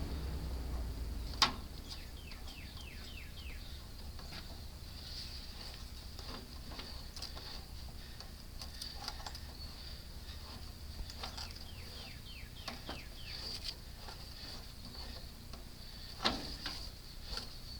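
Faint outdoor background: a steady high insect drone, with two quick runs of short falling chirps and two sharp clicks, one near the start and one near the end.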